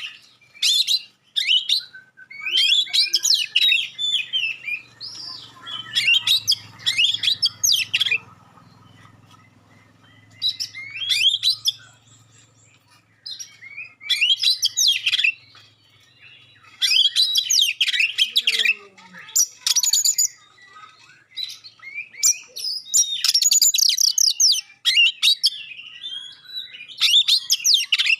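Oriental magpie-robin (kacer) singing in sharp, clear bursts of rapid sweeping notes, each burst a second or two long with short pauses between.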